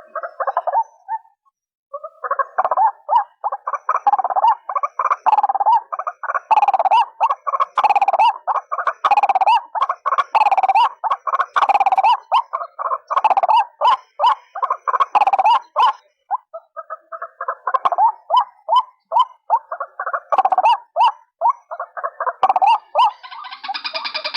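White-breasted waterhen calls played as a trapping lure: rapid runs of repeated calling notes, many per second, with a short break about two seconds in and another about sixteen seconds in. Near the end a denser, higher sound joins in.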